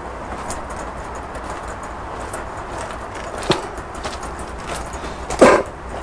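Steady outdoor background noise with a few scattered clicks and knocks, and one louder knock near the end.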